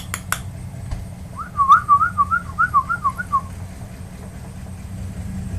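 A few sharp clicks, then a quick run of about nine whistled notes, each sliding up and down, lasting about two seconds, over a steady low rumble.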